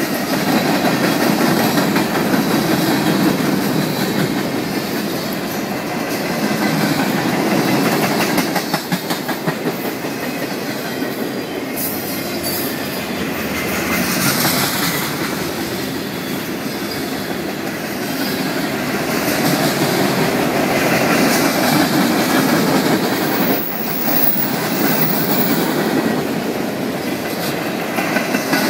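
Freight cars of a CN train rolling past: steel wheels rumbling on the rails and clacking over the rail joints.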